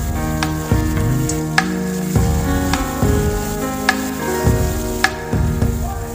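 Onions and tomatoes sizzling as they fry in oil in a metal kadai, stirred with a wooden spatula. Instrumental background music with a steady beat plays over it.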